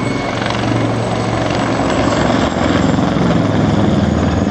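Mil Mi-24 attack helicopter in flight: its rotor and twin turboshaft engines running with a loud, steady roar.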